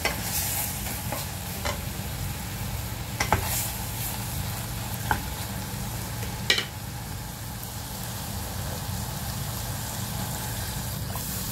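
Pork belly and tomatoes sizzling steadily as they sauté in a pot, with a few sharp knocks of a utensil against the pot as they are stirred.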